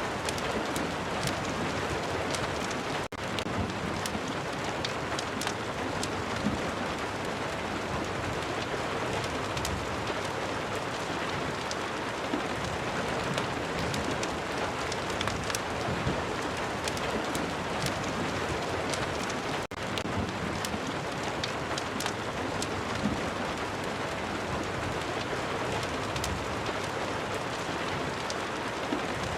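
Steady rain ambience, a dense even hiss with scattered sharp ticks throughout. The sound drops out for an instant twice, about three seconds in and about twenty seconds in.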